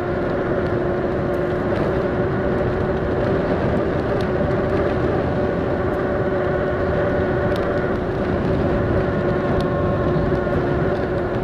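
Electric bike's motor whining at a steady pitch, with wind and tyre noise from riding at a constant speed.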